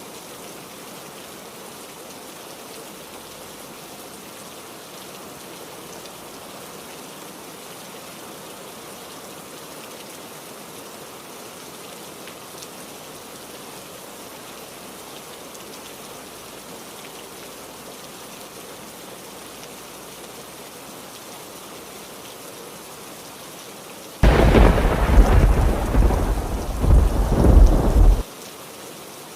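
Steady heavy rain, then near the end a loud thunderclap with deep rumble that lasts about four seconds and cuts off suddenly.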